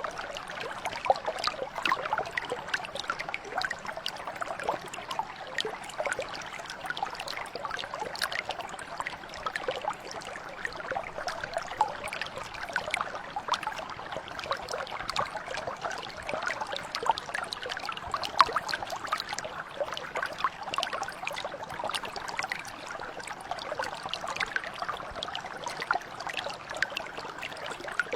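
Shallow stream or mountain brook flowing steadily over stones, a continuous babbling with many small splashes and gurgles.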